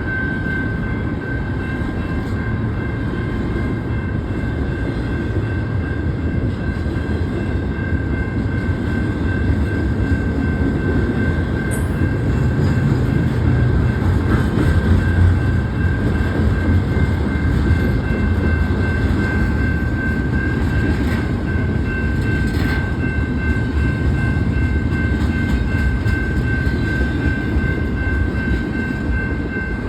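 BNSF double-stack freight train rolling past with a steady low rumble. A sustained high-pitched tone rides over the rumble throughout, and a few short clanks come about 12, 21 and 23 seconds in.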